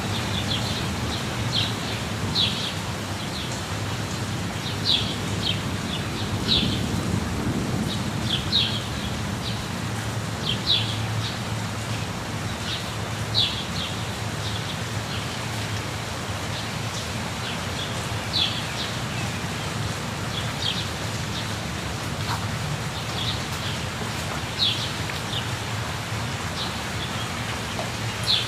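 Waterfall rushing steadily with a deep low rumble, while small birds give short, high, quick chirps every second or few.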